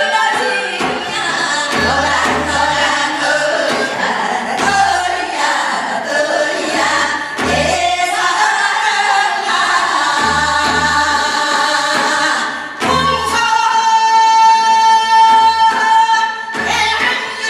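Korean Gyeonggi folk singing in the fast hwimori japga style, with wordy phrases over a steady low drum beat; about two-thirds of the way in the voices hold one long high note.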